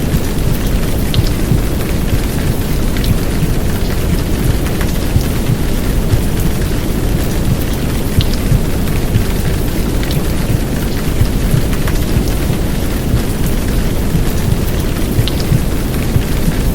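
Steady heavy downpour rain with a dense, deep rushing noise, and scattered small drop ticks above it.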